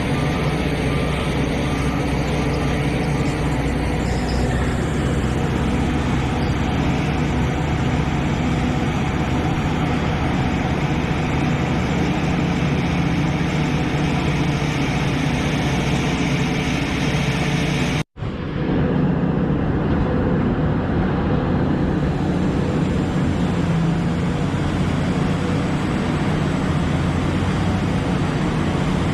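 Liebherr excavator's diesel engine running steadily. The sound cuts out for an instant about eighteen seconds in and then carries on.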